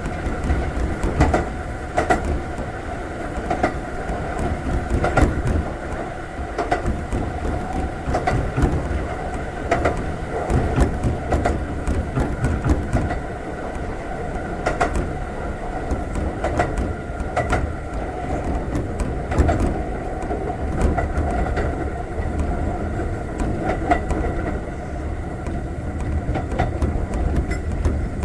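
Konan Railway 7000 series electric train (ex-Tokyu 7000 series) running, its Toyo-built traction motors and gears giving a steady whine at an even speed, over a low rumble with wheels clicking over rail joints.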